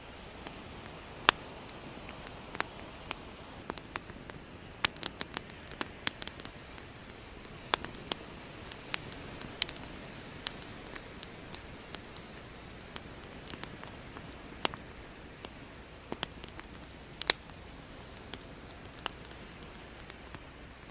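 Burning firewood crackling: irregular sharp pops and snaps over a steady soft hiss.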